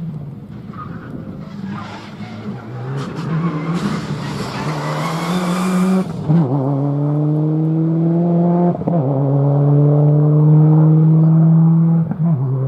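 Four-wheel-drive rally car sliding in with its tyres scrabbling and hissing, then accelerating hard away. The engine note climbs through each gear, with three quick upshifts.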